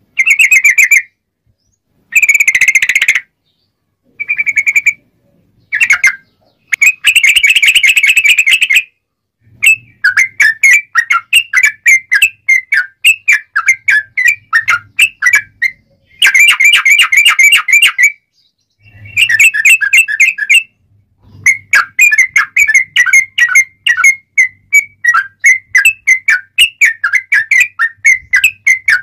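Yellow-vented bulbul (trucuk) singing loudly and energetically in clear, rapid phrases: a few short separate bursts at first, then long runs of quick repeated notes, several a second.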